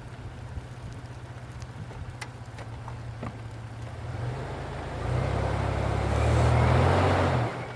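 Sunrader 4x4 truck camper's engine running low and steady, then working harder for about three seconds with a rising rushing hiss, before cutting back abruptly near the end.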